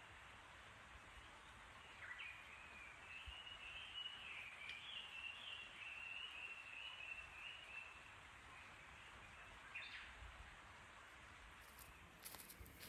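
A songbird singing one long warbling song of about six seconds, with a short call before it and another after it, over faint outdoor background noise. A few light clicks come near the end.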